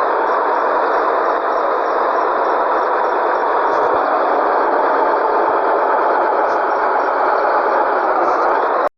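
Scania 113G truck's straight-six diesel engine running steadily with a dense, rattly sound; the sound drops out for an instant near the end.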